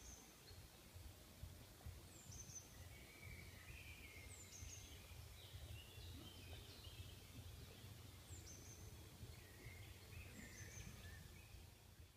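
Faint birdsong: a short, high call that sweeps downward repeats about every two seconds, with lower chirps and twitters between, over a low background rumble.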